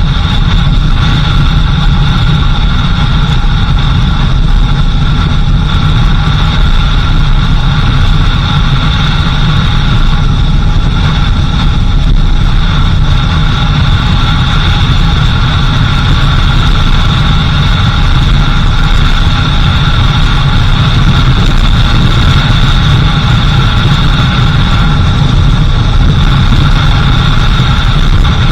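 A vehicle's engine runs steadily while driving, with a constant low road rumble and a steady high tone. Nothing changes across the stretch.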